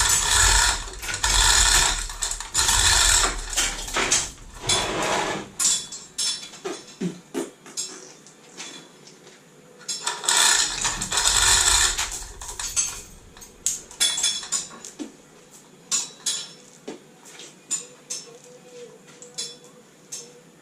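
Metal tools and car parts clanking and rattling during work on a classic Mini's engine. Loud, dense rattling for the first few seconds and again about halfway through, with scattered clinks and clicks in between and after.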